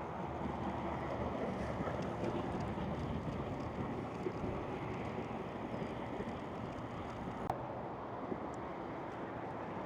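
Steady rumble of tyres and wind buffeting the microphone on a moving electric recumbent bike, with a faint steady hum underneath and a single sharp click about seven and a half seconds in.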